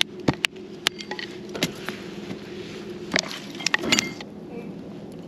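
Wood campfire crackling, with sharp irregular pops that come thickest about three to four seconds in.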